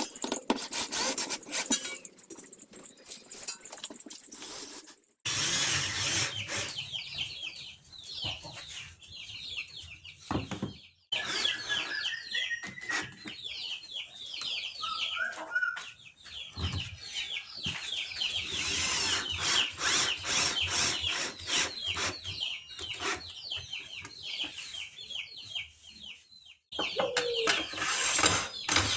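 Woodworking sounds from several short spliced clips: clicks and knocks of work on wood, with high chirping calls throughout.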